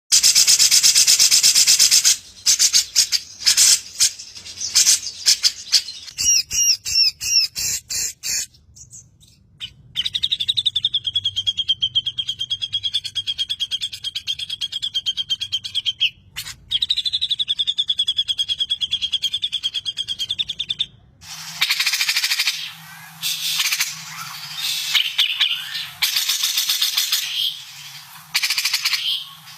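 Cucak jenggot (grey-cheeked bulbul) singing: loud, rapid chattering phrases and harsh stuttering bursts, then two long, even rolling trills, then a dense run of sharp chirps from about 21 s that sounds thinner, as from a different recording spliced in.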